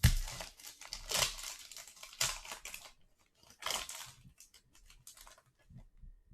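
A trading-card pack wrapper being torn open and crinkled. Dense rustling and tearing, loudest at the start, runs for about three seconds, then a few shorter crinkles follow and thin out.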